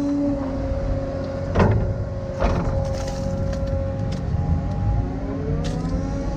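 Excavator engine running under load with its hydraulics working, broken by two sharp clanks about one and a half and two and a half seconds in, and another near the end.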